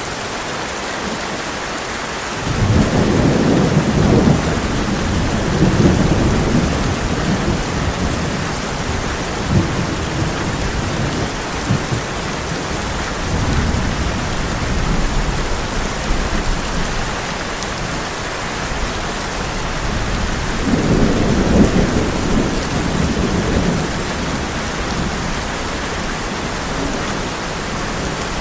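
Heavy rain falling on a tin roof as a steady hiss, with rolling thunder rumbling in about two and a half seconds in and again about twenty-one seconds in.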